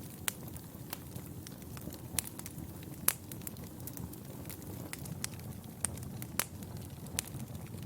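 Fire crackling in a fireplace: a steady low rumble of flames with frequent irregular pops and crackles, one sharper pop about three seconds in.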